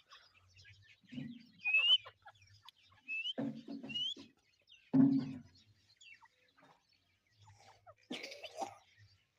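Teetar (francolin) calling: short, rising whistled notes, three or four of them in the first half, mixed with low clucking sounds. The loudest cluck comes about five seconds in, and there is a noisier burst near the end.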